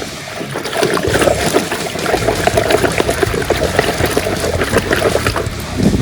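Water splashing and trickling, as when toys are rinsed of mud.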